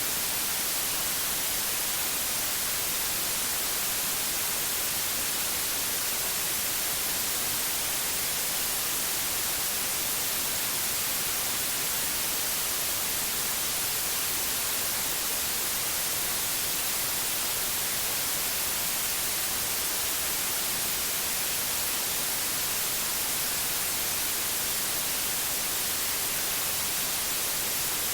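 Steady, unchanging white noise: an even hiss, brightest in the high frequencies, with no other sounds.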